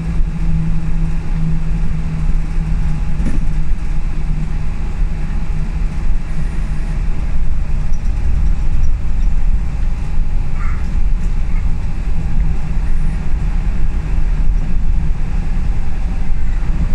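Cabin noise of a Scania L94UB single-deck bus on the move: its diesel engine running under a low, steady rumble of engine and road noise. A held engine note fades out about three and a half seconds in.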